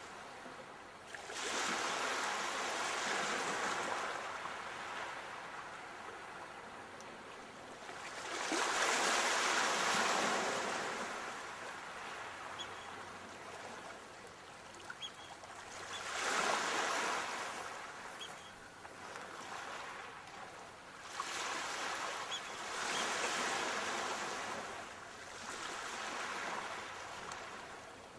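Sea waves breaking and washing ashore: five swelling surges of rushing water several seconds apart, each fading back into a steady softer wash.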